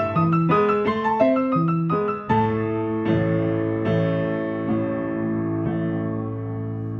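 Piano playing a steady figure of single notes at about two a second. About two seconds in, a low chord is struck and left ringing, slowly fading, with a few quieter notes added over it.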